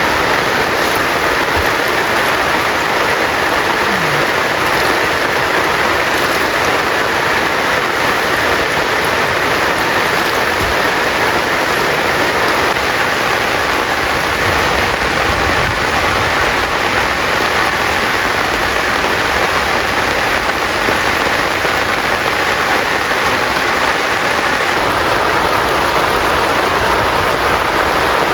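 Heavy rain falling steadily, a loud, even hiss of rain with no letup.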